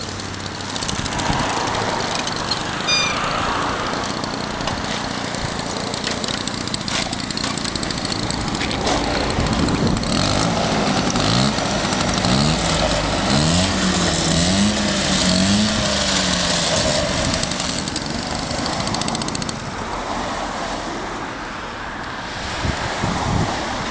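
Peugeot Vogue SP scooter's small engine running, revved up and down several times about halfway through, then settling back.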